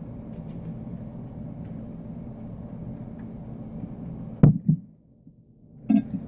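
A steady low hum, then a single sharp knock about four and a half seconds in, after which the hum stops and it goes very quiet.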